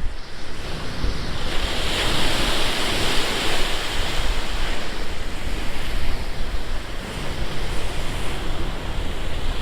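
Storm-driven surf washing against a seawall, one wave's rush swelling about a second and a half in and fading off after about six seconds, over a steady low rumble of wind on the microphone.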